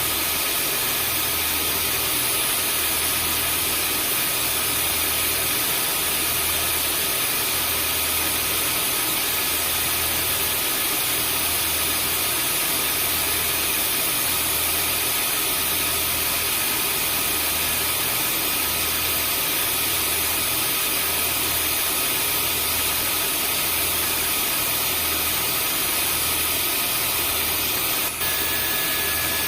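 Vacuum cleaner motor running continuously, a steady rushing hiss with a high whine and a low throb about once a second. It is played as white noise to calm a crying newborn. Near the end there is a brief click and dip, and the whine pitch shifts slightly.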